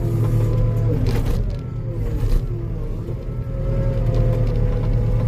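Skid steer engine running steadily while the machine works, its pitch dipping and rising slightly as load comes and goes.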